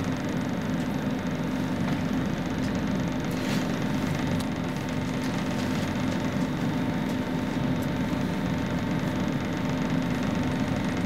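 Steady hum of an electric commuter train's onboard equipment while it stands at a platform, heard inside the carriage, with a constant low tone and a fainter higher one.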